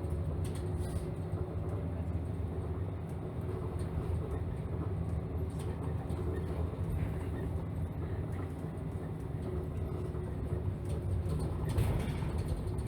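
Route bus heard from inside the cabin while running: a steady low engine and road rumble with a faint steady whine. A few short knocks or rattles come near the end.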